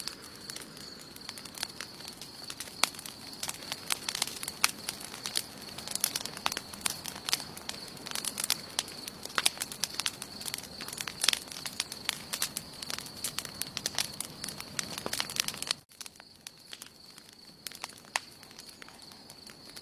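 Wood campfire crackling with frequent sharp pops and snaps. About three-quarters of the way through, the crackling drops off suddenly to a quieter level with only occasional pops. A steady high-pitched tone runs underneath throughout.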